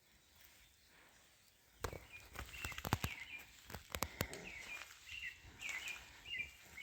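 A songbird chirping in short, quickly repeated notes, each dropping in pitch, from a couple of seconds in. Scattered sharp clicks and taps come along with it.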